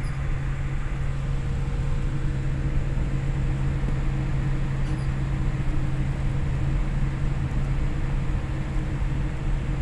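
Steady drone of an airliner cabin on the ground: an even rush of air and machinery with a strong low hum and rumble underneath.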